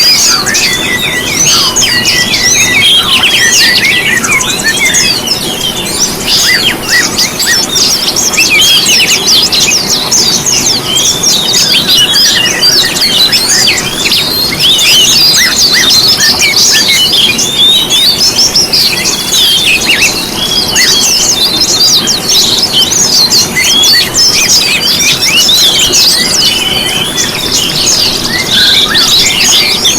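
Mixed chorus of small songbirds in a bird-lure recording, many birds chirping and trilling fast and high at once without a break.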